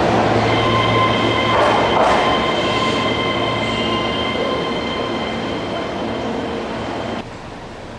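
Keihan electric train running through an underground station, its wheels giving a steady high-pitched squeal over the rumble. It fades gradually, then drops off abruptly about seven seconds in, leaving an even station hiss.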